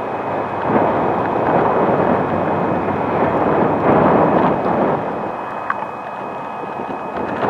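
Wind buffeting a JVC Everio GZ-MG630 camcorder's built-in microphone, which is covered with cellophane plastic wrap: a rough, noisy rush that swells for a few seconds and then eases. The wrap cuts the wind noise only partly, and it is still plainly heard.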